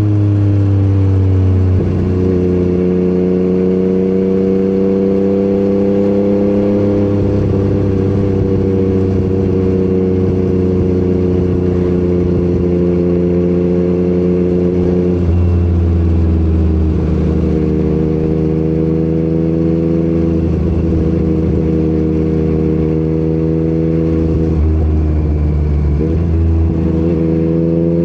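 Yamaha MT-09 inline-three engine running through an Akrapovic exhaust on the move. The engine note holds steady for long stretches and shifts in pitch a few times as throttle and gears change: it falls at first, steps up about two seconds in, dips and recovers around the middle, and rises again near the end.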